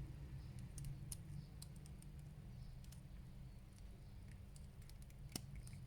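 Scattered light clicks and taps of small plastic action-figure parts and a weapon accessory being handled and fitted together, with one sharper click about five seconds in.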